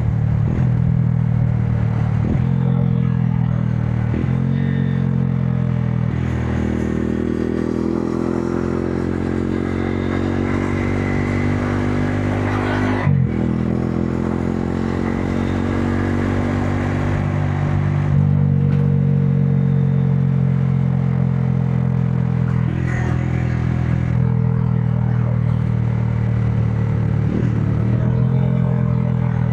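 Modenas Dominar 400 single-cylinder engine running under way, its pitch climbing repeatedly as it accelerates, with a sharp break about halfway through like a gear change.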